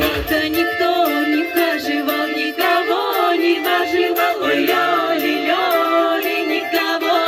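Folk-style music with several voices singing held notes that slide up and down, over a light ticking beat.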